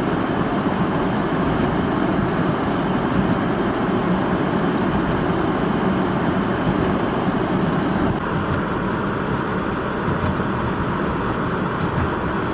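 Steady rushing noise of high blizzard wind mixed with road traffic, the sound shifting slightly about eight seconds in.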